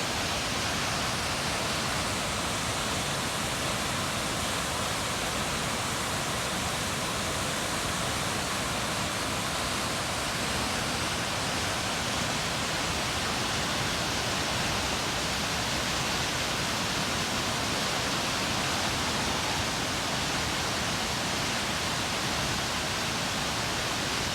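Chinda Falls waterfall pouring: a steady, unbroken rush of falling water.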